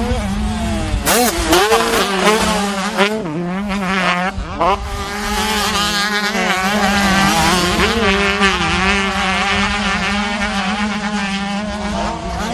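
Several dirt-bike engines revving hard and changing pitch together as they race, over a steady engine drone.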